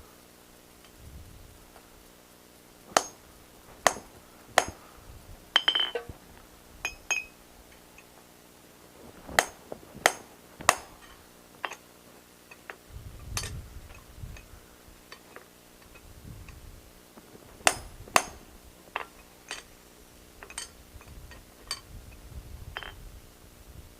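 Blacksmith's hammer striking steel on the anvil, driving a slit punch through 1/4 x 1 inch bar stock. Sharp ringing clinks come in short groups of two or three with pauses between, and lighter taps come near the end.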